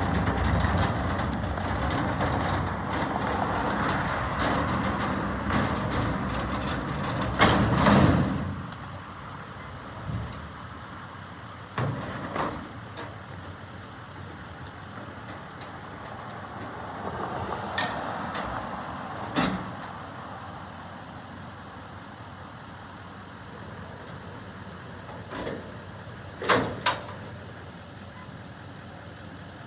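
Garbage truck running loudly, with a sharp loud surge at about eight seconds before its sound falls away. A few sharp bangs and knocks follow through the rest, the last a quick double bang.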